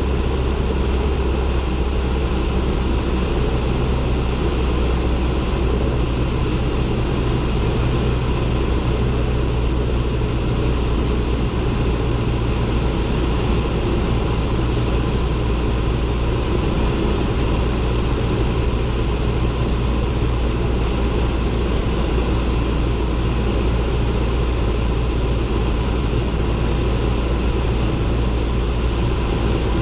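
Cessna 172N's four-cylinder Lycoming engine and propeller droning steadily, heard from inside the cabin.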